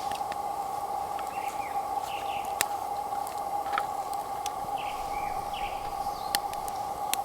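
Small birds chirping in short calls over a steady high hum, with a few sharp clicks scattered through.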